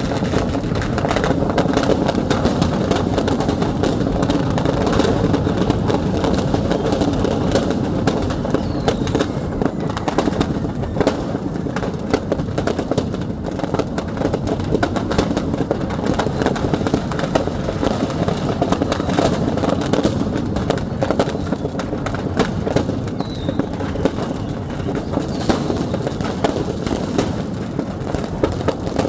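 Firecrackers going off in a fire, popping and crackling rapidly over a steady low din.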